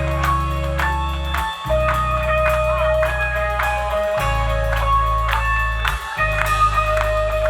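Alternative rock band playing live, without vocals: picked guitar notes ring over a sustained bass line that changes note about every two seconds.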